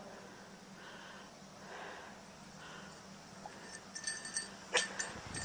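Border collie's faint sounds, three soft ones about a second apart, while it searches the snow, then a sharp click near the end.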